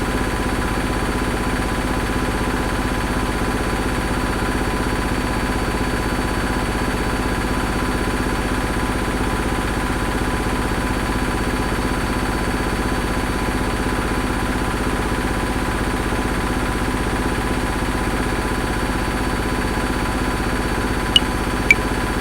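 Washing machine running with a steady hum and a fast, even rattle. Two metronome clicks come in near the end.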